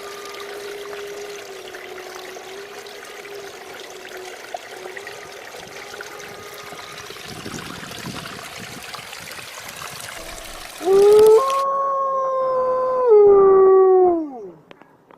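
Water trickling steadily. About eleven seconds in, a dog starts a loud, long howl that holds its pitch for a few seconds, then slides down and fades out.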